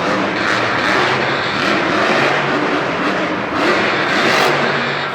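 Monster truck engines running loud and revving in an arena, a dense steady roar with the pitch rising near the end.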